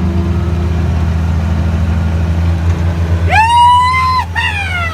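Straight-piped utility vehicle (Gator) engine running steadily. About three seconds in, a loud high-pitched wail rises and holds for about a second, followed by a shorter one sliding down in pitch.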